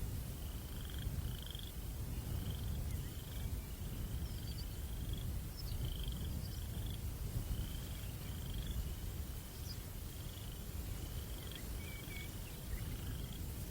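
Crickets chirping at night, short, slightly rising chirps repeating about one and a half times a second, over a steady low rumble of breeze. A few fainter, higher chirps come in now and then.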